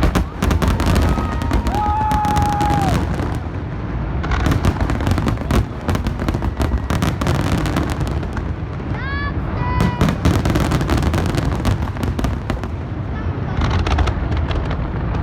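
A large aerial fireworks display going off in rapid succession: dense crackling and popping shells over a continuous low rumble of booms. Spectators' voices call out over it, with a few rising whoops.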